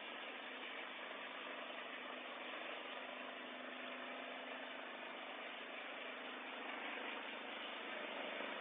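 Engine of a homemade garden tractor running steadily.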